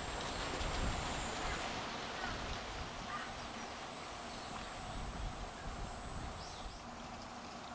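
Outdoor ambience of cicadas buzzing in a steady high drone that fades out near the end, over wind rumbling on the microphone, with a few short bird calls.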